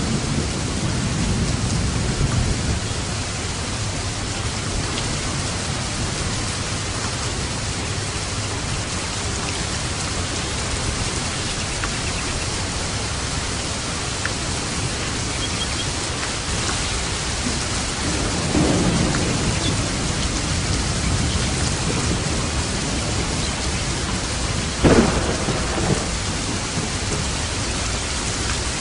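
Steady rain falling, with thunder: a low rumble dying away in the first few seconds, another rumble about eighteen seconds in, and a sharp crack about twenty-five seconds in, followed by a smaller one.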